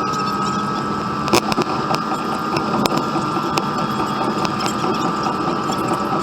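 Car running on the road, heard from inside the cabin: a steady engine and road hum with a constant whine, and a few sharp clicks and rattles.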